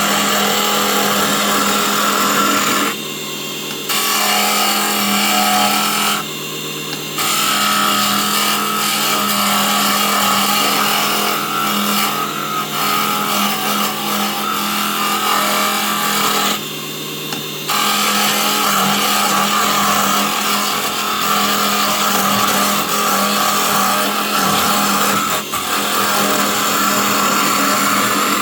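Small 24 V DC-motor wood lathe running at top speed with a steady hum, while a turning tool scrapes the spinning wood in a roughing cut. The cutting noise stops briefly three times as the tool comes off the work, and the motor hum carries on.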